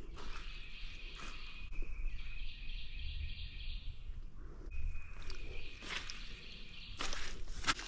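A steady high-pitched trilling chorus of calling animals carries on throughout, breaking off briefly about halfway through. Crunching footsteps sound now and then, more of them near the end, over low wind rumble on the microphone.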